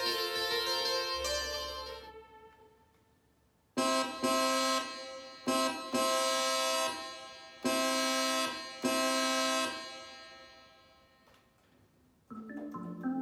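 Yamaha DX7 FM synthesizer patches being played. Notes from one patch fade out, and after a short pause a bright keyboard patch plays six struck chords that ring and die away. Near the end another patch begins with a quick run of notes.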